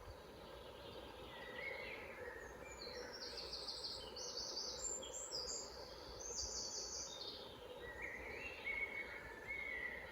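Forest songbirds singing over a steady low background hum. A high, fast trilling song comes in two long phrases in the middle, with lower chirping phrases near the start and again near the end.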